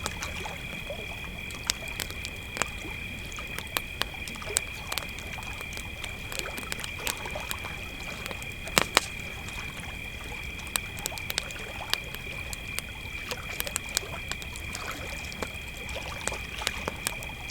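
Crickets trilling in a steady, unbroken high chorus while a campfire crackles with frequent small pops, two sharper pops just past the middle.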